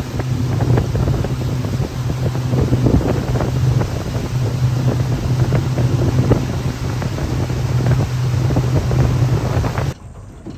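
Boat's outboard motor running steadily with a low hum while the boat moves across the water, under heavy wind buffeting on the microphone. It cuts off suddenly near the end.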